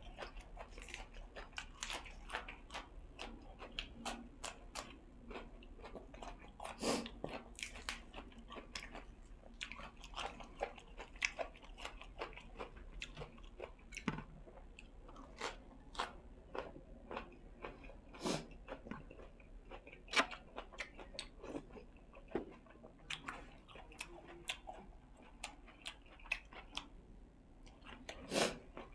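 Close-up chewing and crunching of food in the mouth, with irregular crisp crunches several times a second and a few louder bites standing out.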